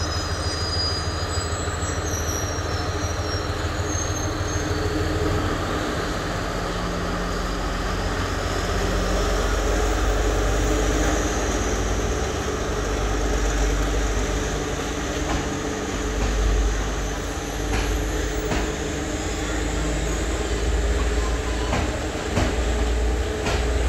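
Passenger train rolling slowly through a station, with a steady rumble of wheels and carriages and a faint high wheel squeal. A few clacks from the wheels come in the second half.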